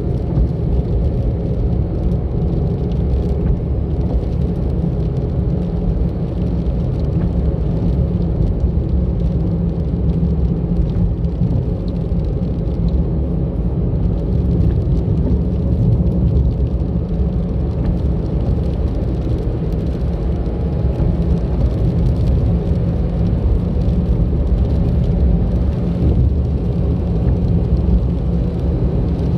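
A car driving along a road: a steady low rumble of engine and tyres that runs without a break.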